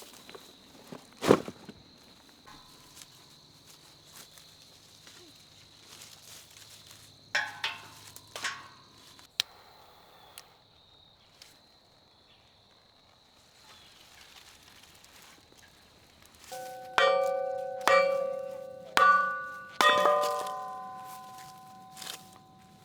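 Five ringing strikes, about one a second, each holding a chord of clear tones that dies away over most of a second, like a chime or a struck piece of metal. They come after a sharp knock about a second in and a few lighter pitched taps midway.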